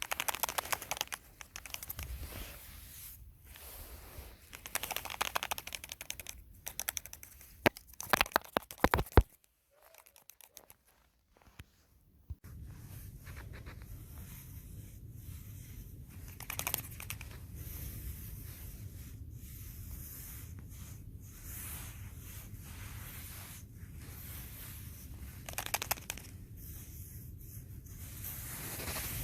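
Irregular crinkling, tearing and scraping of material handled by hand, dense for the first nine seconds. It stops for about three seconds, then returns as a steadier faint rustle with occasional crackles.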